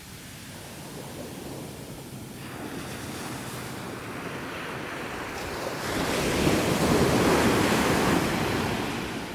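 Ocean surf on a beach, with one wave building, breaking and washing up loudly about two-thirds of the way through before fading. Wind buffets the microphone.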